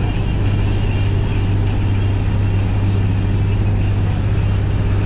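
Boat engine running steadily under way, a loud, even low drone heard from on board.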